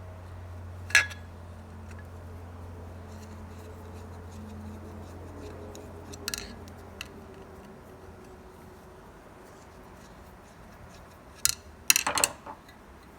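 Scattered sharp clicks and clinks of small metal parts being handled, with a quick cluster of them near the end, over a low steady hum that fades out about two-thirds of the way through.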